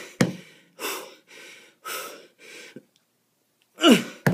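A man breathing hard from kettlebell exercise: a run of quick, noisy breaths about every half second, then a louder voiced grunt that falls in pitch near the end. A couple of sharp clicks are heard, one just after the start and one at the very end.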